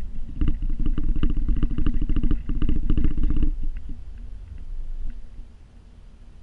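Vehicle engine running while working a pull-behind snow plow, with a fast clattering rattle for about three seconds that then dies away, leaving the engine quieter.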